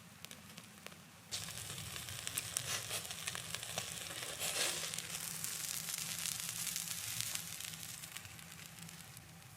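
Food frying in hot oil in a pan. The sizzle starts suddenly about a second in, crackles densely, and slowly dies down over the following seconds.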